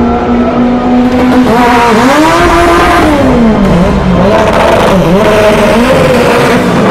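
Drag car's engine, held at a steady note at first, then revved up and let fall back about four times in quick succession.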